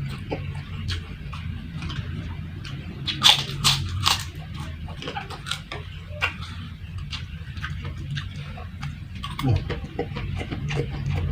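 Close-up eating sounds: chewing with crisp crunches of kerupuk (crispy chili crackers) and fried rice, the loudest crunches coming about three to four seconds in. A low steady hum runs underneath.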